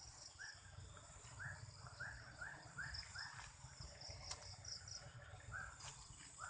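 Outdoor insect chorus: a steady high cricket-like trill, with a run of short rising chirps from another animal at about two a second and a couple of sharp clicks.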